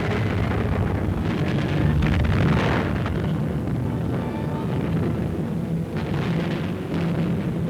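Continuous rumble of explosions and gunfire from a wartime newsreel soundtrack, swelling briefly about two to three seconds in and again near six seconds, with music faintly underneath.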